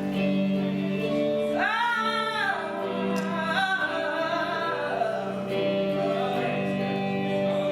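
Worship music: a steady sustained chord accompaniment with a singer's voice gliding up and down on long held notes, without clear words.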